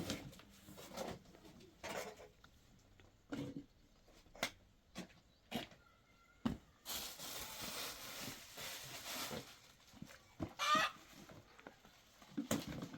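Scattered knocks and taps, with a hissing noise for a couple of seconds in the middle and a short animal call, like a bird's cluck, near the end.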